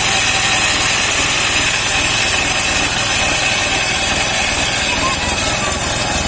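Engine-driven homemade circular sawmill running, its blade cutting saman (rain tree) wood: a steady high-pitched saw whine over the engine's even hum.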